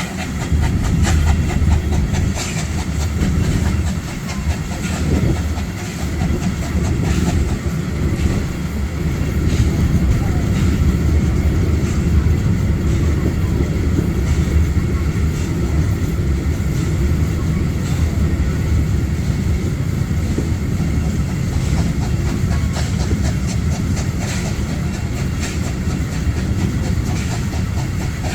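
Historic passenger train running along the track: a steady low rumble with repeated clicks of the wheels over the rail joints.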